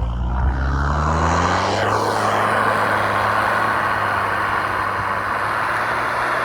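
Mitsubishi L200 pickup's engine revving hard: the pitch climbs over the first second or two, then it holds at high revs under full throttle as the truck charges into deep frozen snow.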